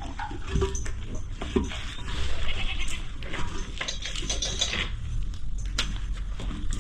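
Farm animals bleating among scattered knocks and clatter.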